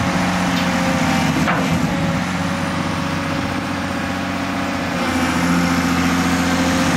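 Hitachi 400 LC excavator's diesel engine running at a steady idle; its even tone goes rough for a few seconds mid-way, then settles again.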